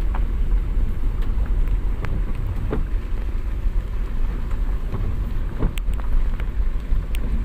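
Steady low rumble of a motor vehicle running, with scattered light clicks and knocks over it.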